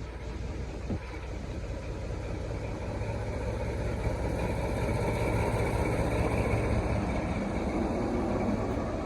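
Diesel locomotive engine running, growing louder through the middle and easing back near the end.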